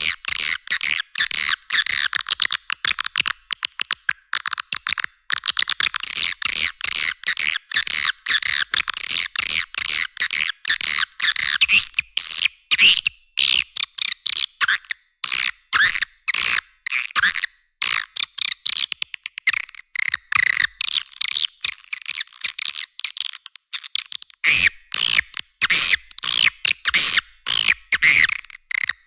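Swiftlet call lure recording: dense, rapid trains of twittering chirps and clicks, with nothing below about 1 kHz. This is the kind of call track played to draw swiftlets into a nesting house.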